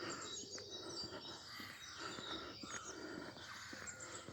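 Spring dawn chorus: many birds singing at once, a dense mix of overlapping high chirps, whistles and trills.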